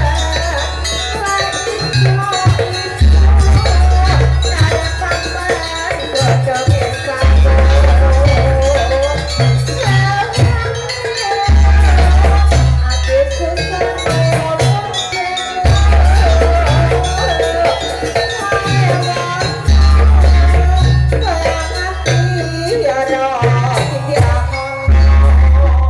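Jaranan accompaniment music from an East Javanese ensemble: a wavering melody line over dense percussion and rattling, with deep bass tones that sound for a second or more and come back every few seconds.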